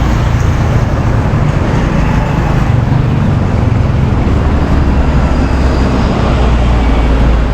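Car on the move: steady low engine and road rumble.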